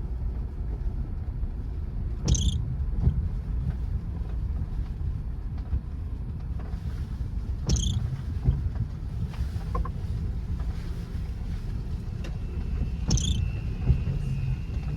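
Car driving slowly over a rough, muddy dirt road, heard from inside the cabin: a steady low rumble of engine and tyres. Three short high squeaks come about five seconds apart, and a thin steady whine starts near the end.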